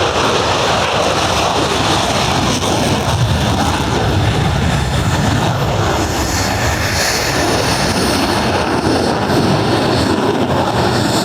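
Pratt & Whitney F135 turbofan of an F-35A Lightning II: loud, steady jet roar with a wavering, rumbling low end.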